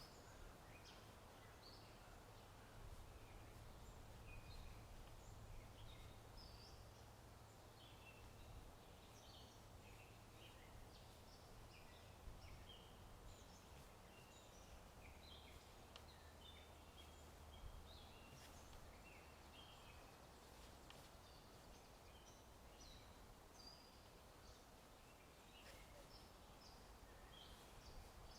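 Faint birdsong: many small birds chirping in short, scattered calls over a steady hush of wind and rustling, with a few isolated clicks.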